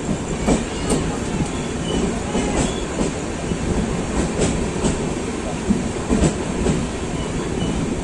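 Passenger train rolling slowly into a station, heard from an open coach door: a steady rumble with irregular clicks and knocks from the wheels over rail joints, and a few faint wheel squeals.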